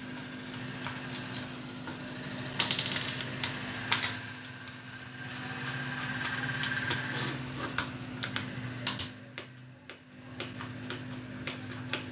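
Scattered clicks and knocks from a plastic wireless doorbell housing being handled and opened up, over a steady low hum.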